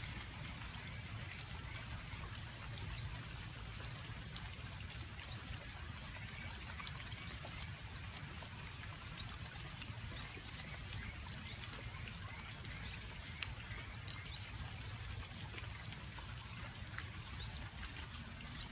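Steady outdoor background hiss with a low rumble, through which a small bird gives short, rising chirps about once a second.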